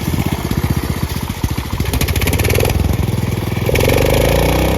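Cub Cadet lawn tractor engine running loud under load, its speed rising and falling more than once in the second half.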